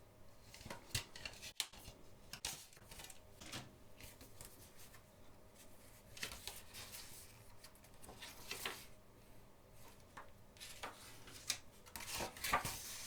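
Quiet handling of a CD single's packaging: scattered soft clicks and rustles of the disc cases, inserts and paper lyrics sheet, with a busier patch near the end.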